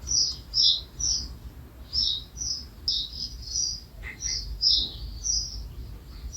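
Songbird chirping: short high notes in quick pairs and runs, repeating about twice a second.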